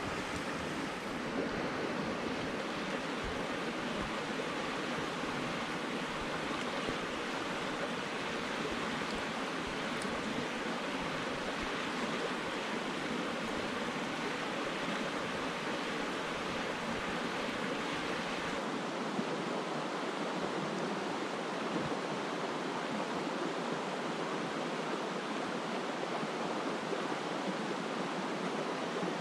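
A brook running high and fast, its water rushing steadily. The low rumble drops away about two-thirds of the way through.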